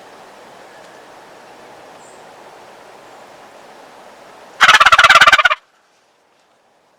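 A loud turkey gobble from a hunter's call, sounded to provoke a wild gobbler into coming in: one burst of rapid rattling notes about a second long, a little after halfway through. A faint steady hiss comes before it.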